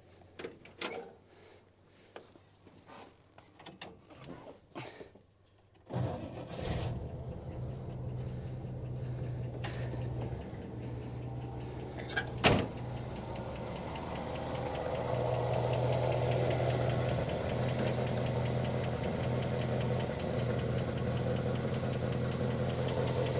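1970 Oldsmobile Delta 88's V8, first some short hisses and clicks, then catching on ether about six seconds in after sitting and settling into a steady, smooth idle, "like a sewing machine". A single sharp knock comes about halfway through.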